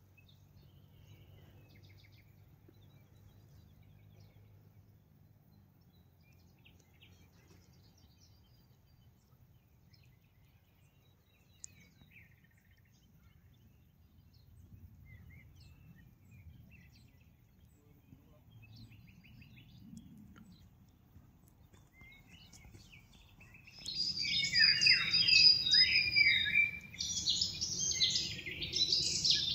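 Faint outdoor background with a few scattered faint chirps for most of the stretch, then about 24 seconds in a bird starts singing loudly: a rapid, varied run of high chirps and trills that carries on without pause.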